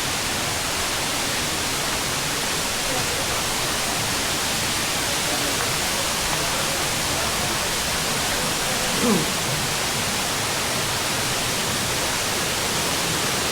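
Ulu Petanu waterfall: a steady, loud rush of falling water. A brief falling-pitched sound cuts in about two-thirds of the way through.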